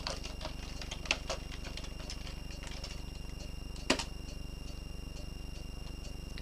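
Steady electrical hum and buzz from the recording setup, with a few short sharp clicks, the loudest about four seconds in.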